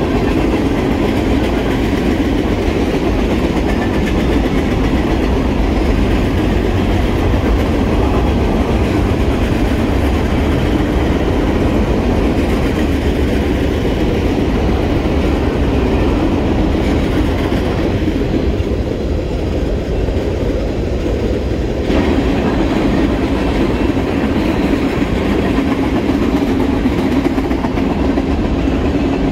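Freight train of tank cars and boxcars rolling past: loud, steady noise of the cars' wheels on the rails.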